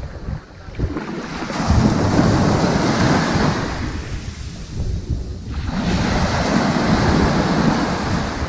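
Ocean surf washing up onto a sandy beach: two swells of rushing water, one building about a second and a half in and a second one after a brief lull in the middle.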